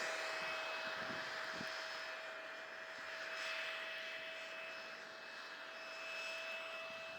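Electric ducted fans of a radio-controlled Boeing 707 model jet running with a steady high whine, fading gradually as the plane flies away, pushed at full throttle because the model is underpowered for the strong headwind.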